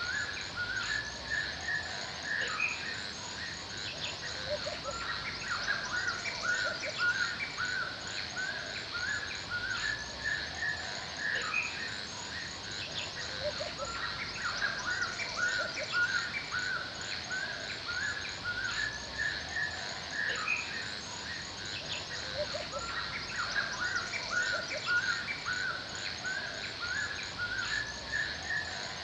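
Forest ambience: many small birds chirping continuously in short, overlapping, repeated calls, over a steady high insect drone with fast ticking.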